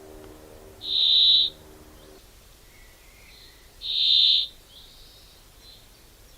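A bird calling: two loud, high notes about three seconds apart, each about half a second long, with fainter chirps after them.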